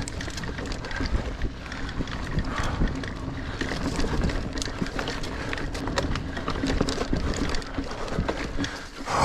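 Niner Air 9 RDO 29er mountain bike rolling over rough dirt singletrack: a steady tyre rumble with frequent clicks and rattles as the bike runs over stones and roots.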